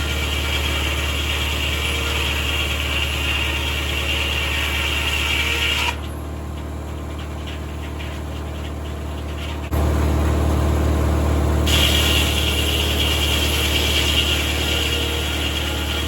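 1950 Corley circular sawmill running with a steady low hum and a higher whirring noise. About six seconds in, the sound suddenly drops to a quieter hum. Near ten seconds it jumps back louder, and the higher whirr returns shortly after.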